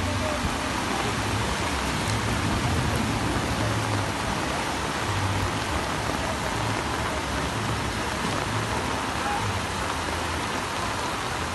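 Heavy rain pouring down, with muddy floodwater running across a street; a steady hiss.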